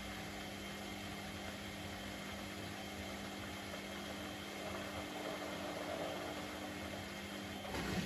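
Privileg Sensation 952 S top-loading washing machine running during its programme: a steady mechanical hum with a low wash of noise, and a click with a change in the sound near the end.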